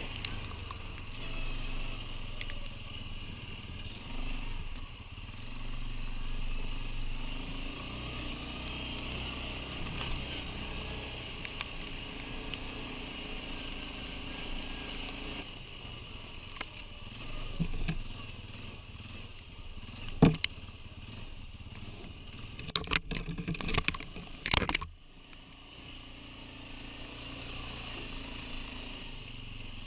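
Quad bike (ATV) engine running as it rides along. A few sharp knocks come about two-thirds of the way through, and just after them the engine note falls away before building up again.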